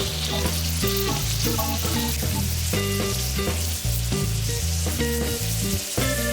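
Food frying in a hot pan, a steady sizzle, with background music playing over it.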